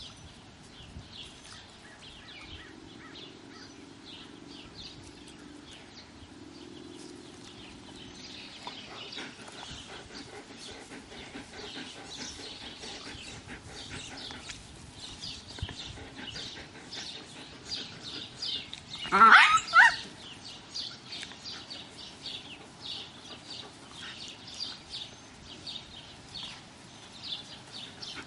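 Small birds chirping on and off throughout. About two-thirds of the way in comes a brief, loud animal cry that rises in pitch, in two quick pulses.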